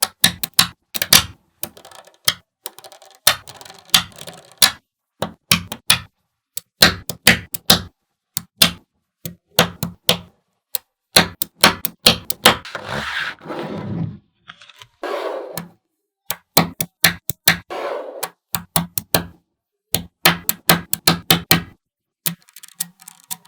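Small magnetic balls clicking and snapping together in quick, irregular runs of sharp clicks, with a few short, softer noisy stretches between them.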